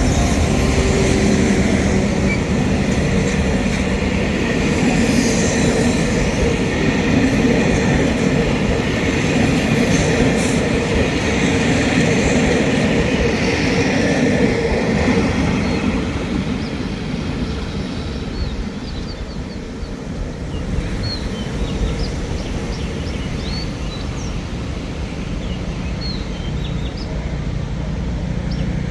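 Royal Blossom train number 945 running past on the Nam Tok line: a steady engine note over the rumble of the wheels for the first half, then quieter as it moves on, with faint short high squeaks in the second half.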